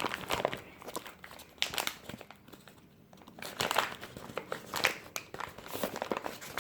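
Microwave popcorn bag crinkling as it is handled and unfolded, in irregular rustles with a brief lull in the middle.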